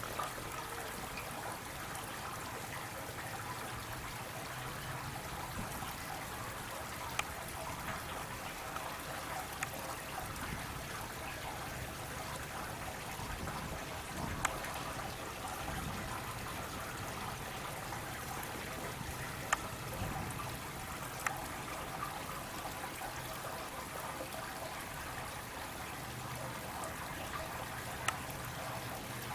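Steady trickle of running water, with a few faint sharp clicks.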